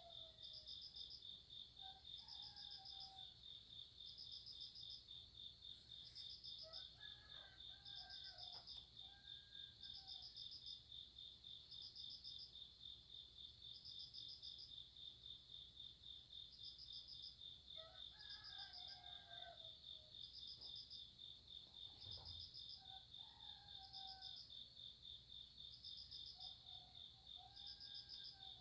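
Night insects calling: one cricket trills steadily and fast, while another chirps higher in short bursts about once a second. A few short, lower calls come and go.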